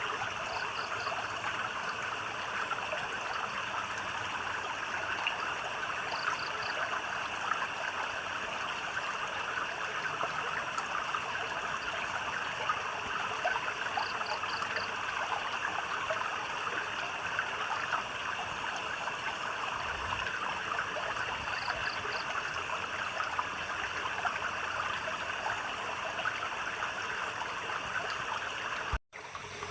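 Water trickling and babbling steadily over stones, under a steady high buzz of night creatures. Every several seconds a short chirp of three quick pulses sounds. The sound briefly cuts out to silence near the end.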